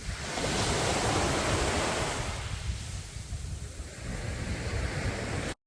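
Sea waves breaking on a sandy beach: a wave surges in right at the start and washes out, and another builds about four seconds in, over a low rumble of wind on the microphone. The sound cuts out abruptly just before the end.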